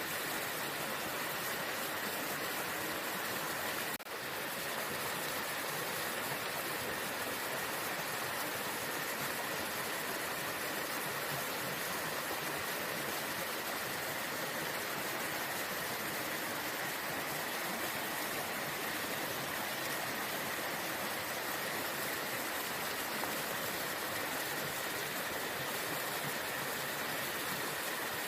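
Waterfall: steady rushing of falling water, with a brief dip and click about four seconds in.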